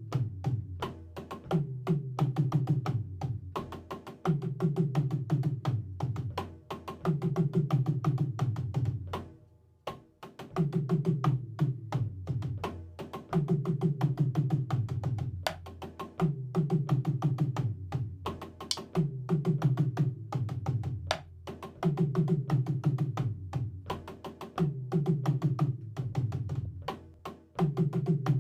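Drum kit played by a beginner drummer: a steady groove that repeats about every two seconds, with a brief break about nine and a half seconds in.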